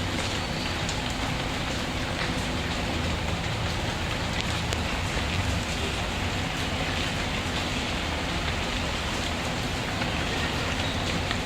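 Steady rain falling and pattering on surfaces, mixed with faint scattered crackles from a wood fire in a fireplace.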